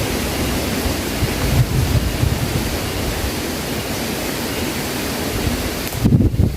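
Heavy rain falling, a steady dense hiss. Near the end the hiss drops away and wind buffets the microphone in uneven low gusts.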